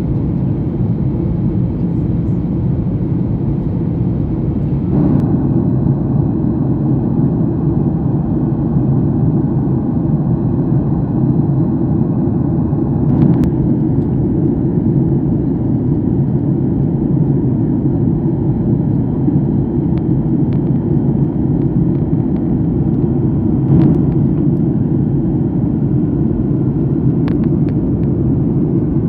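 Steady low roar of an airliner's cabin in flight: jet engines and airflow heard from inside the cabin. A few faint clicks break through now and then.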